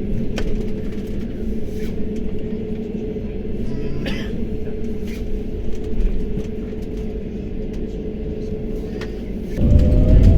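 Airbus A320 cabin noise: a steady low rumble with a held hum while the airliner taxis or holds. Near the end the engines spool up suddenly, the rumble growing much louder under a rising whine, as takeoff thrust is applied.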